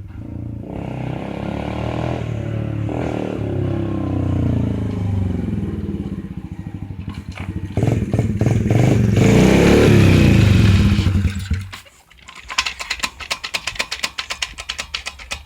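Dirt bike engine revving, its pitch climbing and falling as it pulls away and comes back, loudest just before it drops off sharply about twelve seconds in. After that comes a fast, sharp rattling clatter.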